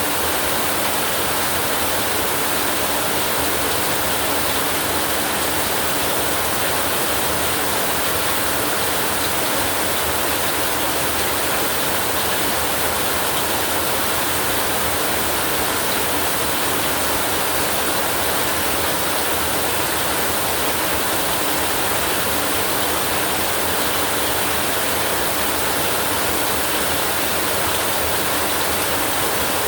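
Steady heavy rain: an even, unbroken hiss with no thunder or separate drops standing out.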